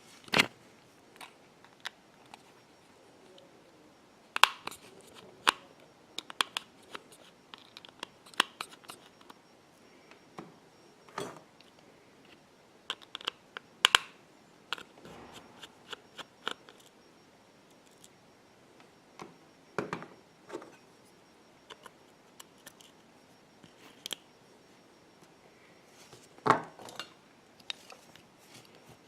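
Scattered small clicks, taps and scrapes of hand tools and small metal parts on an opened iPhone 6 during disassembly, with a few sharper clicks standing out.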